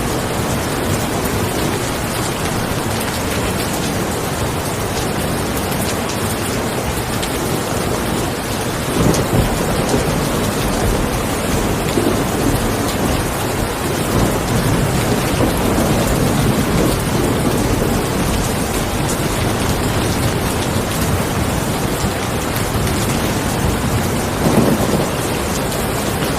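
Steady rain, with low rolls of thunder swelling about a third of the way in, again through the middle, and briefly near the end.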